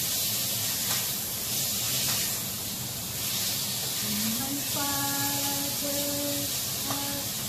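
Beef strips sizzling in a hot frying pan as they are stirred, the hiss swelling and easing with each stir. About four seconds in, a woman's voice hums a few held notes over it.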